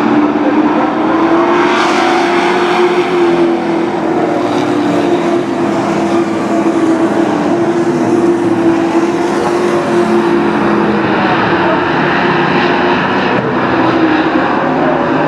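Sport truck race engines running hard on a short oval track, a steady loud engine drone that wavers only slightly in pitch.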